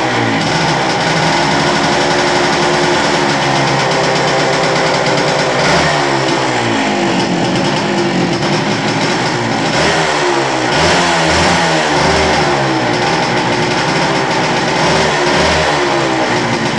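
1979 WSK Kobuz motorcycle's single-cylinder two-stroke engine running, revved up and let back down to idle several times.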